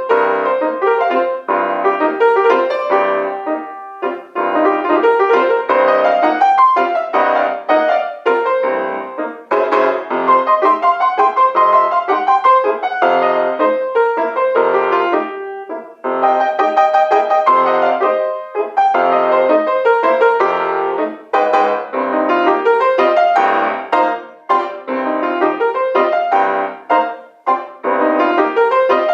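Solo piano playing a fast kolomyika dance piece, with quick runs of struck notes and brief pauses between phrases.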